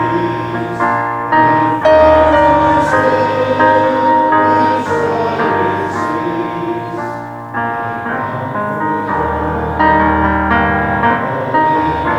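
Piano playing a slow hymn tune in sustained chords, with the deep bass note changing every second or two.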